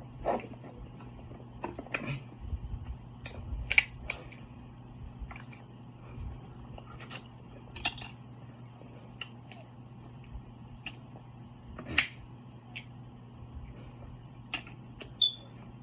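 Close-up eating sounds from a seafood mukbang: chewing with scattered sharp mouth smacks and clicks, about a dozen, the loudest about four seconds in and again near twelve seconds.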